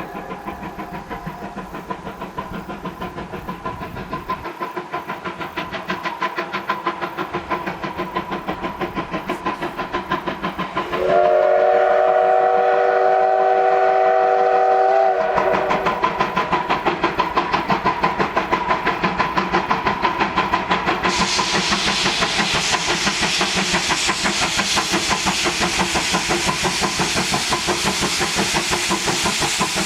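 Steam locomotive working hard, with steady rhythmic exhaust chuffs and one long steam-whistle blast of about four seconds, starting about eleven seconds in. In the second half the chuffing grows louder and a steam hiss rises.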